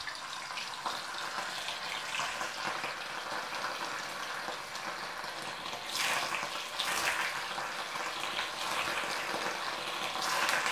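Paneer cubes sizzling in hot oil in a frying pan as they are dropped in one by one: a steady crackling sizzle that flares up each time more pieces go in, about six and seven seconds in and again near the end.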